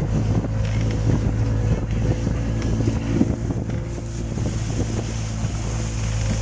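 Boat's outboard motor running steadily while under way, with wind on the microphone.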